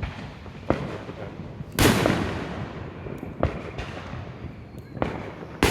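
Fireworks going off in a series of bangs, sounding like a war zone. A loud boom about two seconds in and another at the end each leave a long fading echo, with smaller bangs between them.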